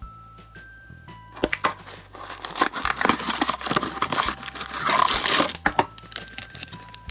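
Plastic packaging crinkling and tearing as a candy-toy packet is unwrapped by hand, a dense crackle from about a second and a half in until near six seconds.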